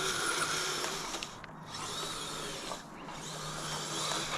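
Dual Traxxas 380 brushed electric motors of a Kyosho Blizzard RC snowcat whirring as it drives on full metal tracks. The sound eases off briefly twice, at about one and a half and three seconds in.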